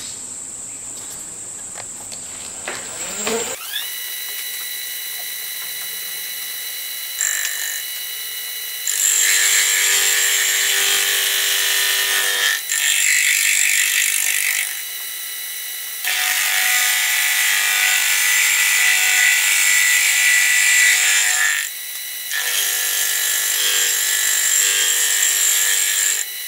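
Milling machine spindle starting up with a steady whine a few seconds in, then a 5-insert face mill fed by hand across a cast-iron steam-engine cylinder casting, skimming the port face. The loud gritty cutting noise comes and goes in four long stretches as the cutter passes across the iron.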